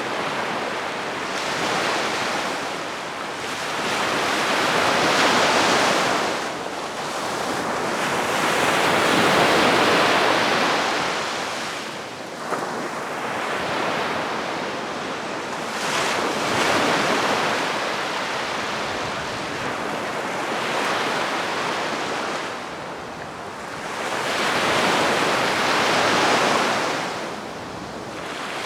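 Calm sea waves washing onto the shore, each wave swelling and receding every few seconds.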